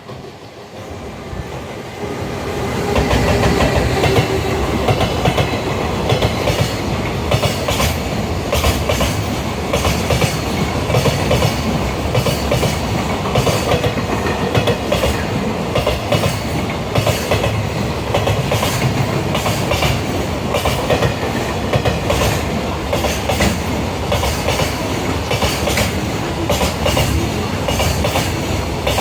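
A train approaching and then running past close by, its wheels clattering over rail joints in a steady rapid rhythm.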